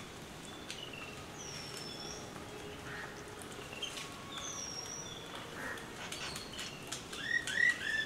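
Birds calling outdoors: a short, high, thin whistled note repeats every few seconds among scattered chirps, with a louder run of quick chirps near the end.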